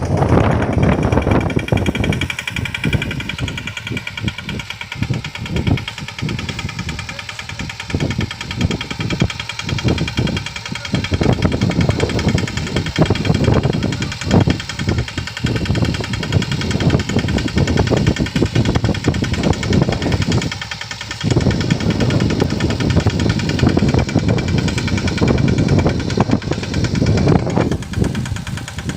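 Khodiyar Sanedo farm vehicle's engine running steadily with a rapid, even pulsing beat, along with a steady higher-pitched hum.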